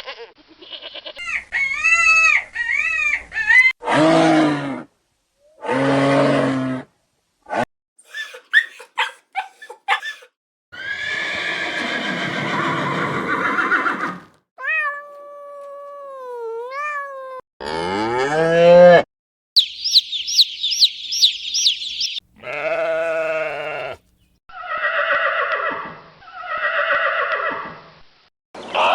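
Calls of several different farm animals, among them cow moos and bleating, played one after another as short separate clips with abrupt cuts between them.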